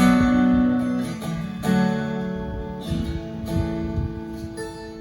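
Acoustic guitar strumming chords as a song's introduction, the chords ringing out between strums.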